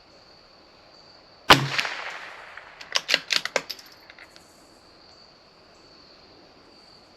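A single shot from a CZ 457 .22 LR bolt-action rifle about one and a half seconds in, its report dying away over about a second, followed a second later by a quick run of sharp metallic clicks as the bolt is worked to eject and chamber a round. Crickets chirp steadily throughout.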